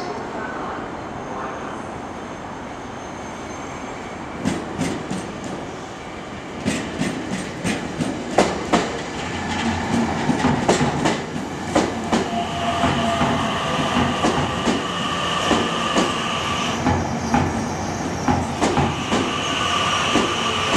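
Keio 1000-series electric train arriving at a station. Its wheels clack over rail joints and points from about four seconds in, coming more often as it rolls through. Steady high squealing tones set in partway through as it slows.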